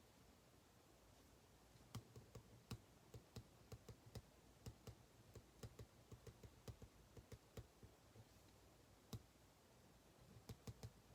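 A quick, irregular run of light clicks for about six seconds, a single click a little later, and a short cluster near the end.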